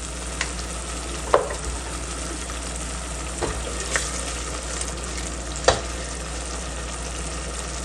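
Onions and freshly added ground spices frying in a steel pot with a steady sizzle while a spatula stirs the masala, knocking against the pot a few times.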